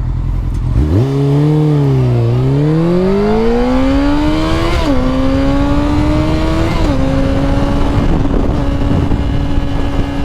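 Honda CBR600F4i inline-four engine pulling under throttle, its revs dipping briefly, then climbing and dropping sharply at two gear changes about five and seven seconds in before holding steady. Wind rush runs underneath. The rider blames his rough shifting on being out of practice.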